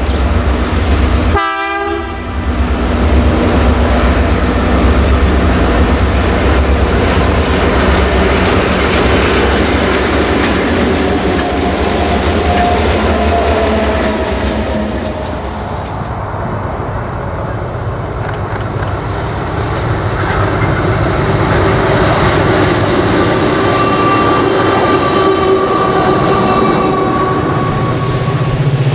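Diesel-hauled train passing: the locomotive engine runs loudly while the wagons rumble and clatter over the rails, and a horn sounds in long steady tones.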